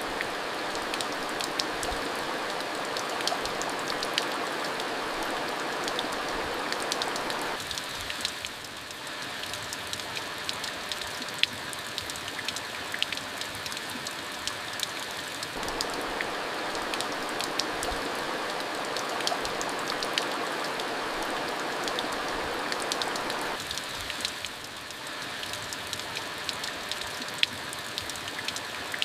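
Steady rain falling, with many sharp individual drop hits. A fuller rushing layer eases about a quarter of the way in, swells again just past halfway, and eases once more toward the end.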